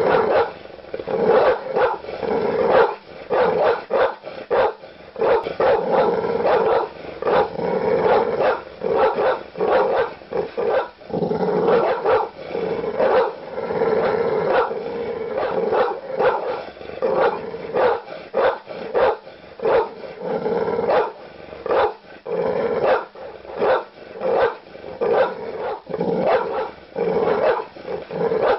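Large dog barking deep and aggressively, a fast, continuous run of short barks, several a second, with only brief pauses.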